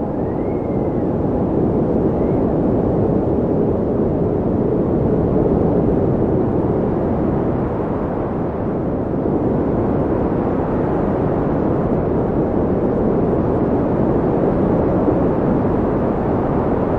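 Wind blowing hard and steadily: a low rushing noise that swells and eases gently. A faint rising-and-falling whistle comes twice in the first few seconds.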